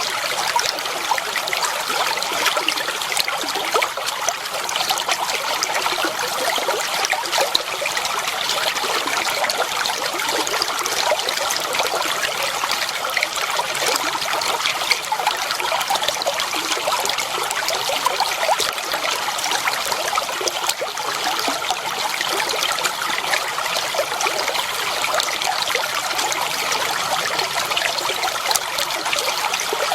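Clear water flowing and trickling steadily over stones, a shallow stream with a dense, even babble of small splashes.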